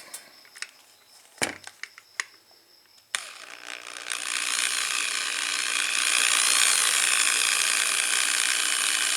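A few light clicks and knocks, then a drill starts about three seconds in and runs at a steady speed, spinning the gear drive of an old Honda motorcycle's mechanical tachometer.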